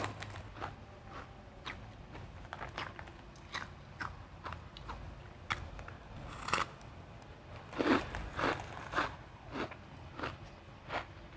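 Refrozen crushed ice crunched between the teeth: irregular, sharp crunches, with a louder cluster of bites about eight seconds in.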